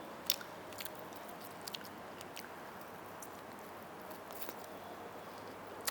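Close-up eating sounds: biting into and chewing a grilled chicken wing with its skin on, heard as scattered small clicks and mouth smacks.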